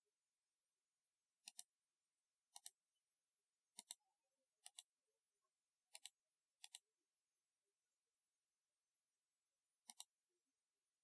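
Typewriter-style keyboard keys struck one at a time with pauses between, about seven keystrokes, each a quick double click of press and release.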